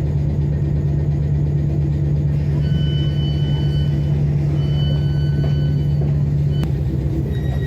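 Class 455 electric multiple unit running along the line, heard from inside the carriage: a steady low rumble with a strong hum. High thin whining tones come and go twice, about three and five seconds in, and there is a sharp click near the end.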